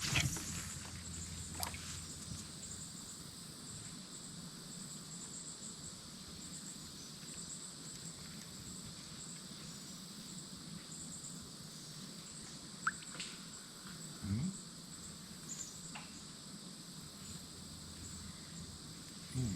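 Steady chorus of insects in the woods: a continuous high, pulsing buzz, with a few faint clicks and knocks.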